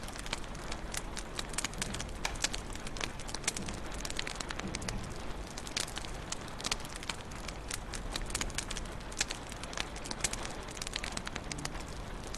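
Wood fire crackling in a fireplace: irregular sharp pops and snaps, several a second, over a steady low hiss and rumble of the flames.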